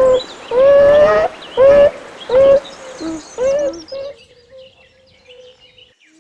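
A beaver calling: a run of short whining calls, one about every half second to second, ending in one long, fading call. Small birds chirp faintly in the background.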